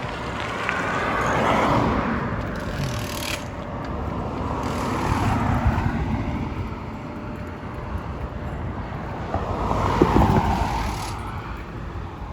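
Road traffic heard from the roadside: three vehicles pass one after another, each swelling and then fading, over a steady low rumble of wind on the microphone.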